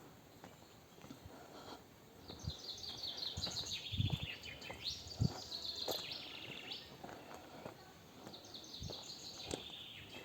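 A songbird singing in woodland: several quick trilled phrases that step down in pitch, with soft thumps now and then.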